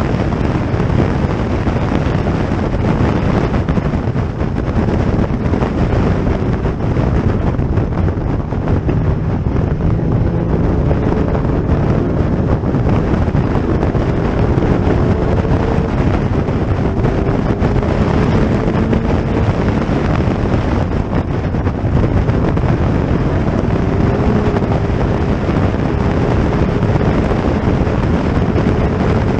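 Steady wind noise on the microphone, with faint racing-car engine notes rising in pitch several times as the cars accelerate.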